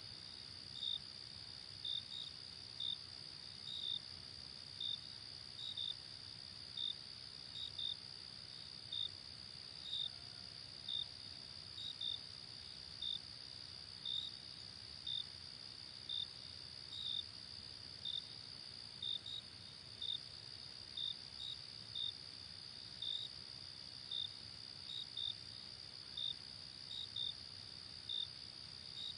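Night-time crickets: a steady high insect trill with short, separate cricket chirps repeating roughly once or twice a second, over a soft, even noise bed.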